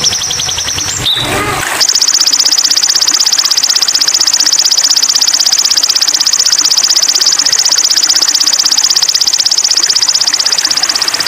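Sogon (crimson sunbird) singing a long, fast, high-pitched trill of rapidly repeated notes. The song breaks off briefly about a second in, then resumes as one steady trill.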